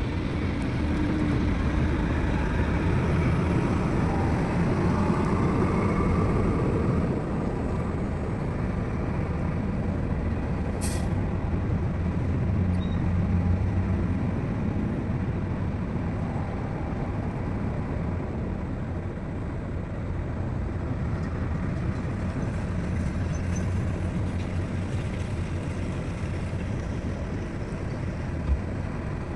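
Heavy diesel engines of an excavator and dump truck running steadily under load, with a brief hiss of air about eleven seconds in and a short thump near the end.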